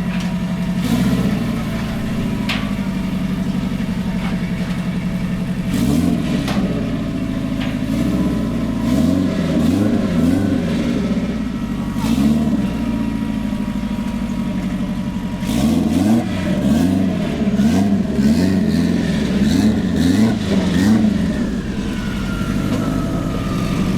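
Car engine idling, with several stretches of repeated throttle blips where the engine revs up and falls back about once a second.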